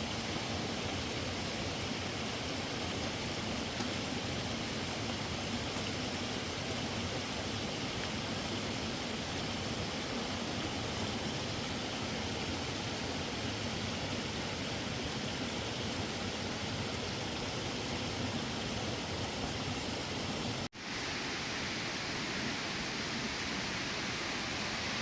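Steady rushing of running water, like a mountain stream or small waterfall, unchanging throughout. It breaks off for an instant about 21 s in and resumes with less hiss.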